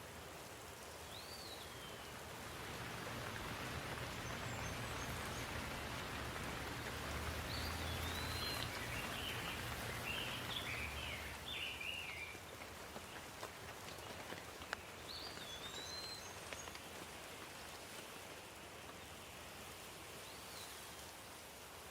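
Steady rain falling, growing louder for several seconds in the middle, with a bird chirping a few times above it.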